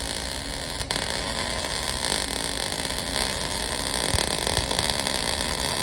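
Electric arc welding along a V-grooved break in a tractor's rear attachment arm: a steady crackling hiss, with a momentary break in the arc about a second in.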